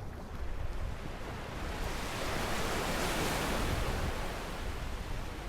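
Sea wave breaking and washing up the beach: a hiss that swells about two seconds in and fades away near the end, over a low rumble of wind on the microphone.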